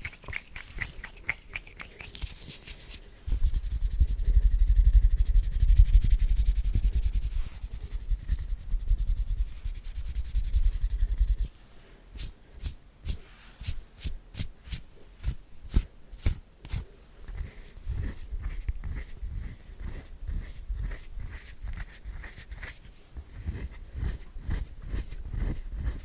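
Close-miked ASMR hand sounds. For about three seconds there are faint clicks. Then the palms rub together briskly and continuously for about eight seconds, giving a loud, full, close rubbing. It breaks off into a long run of quick, crisp finger taps and clicks.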